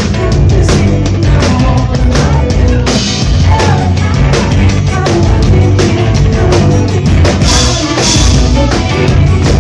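Live rock band playing loudly, a drum kit keeping a steady beat over heavy bass. There is a cymbal wash about seven and a half seconds in.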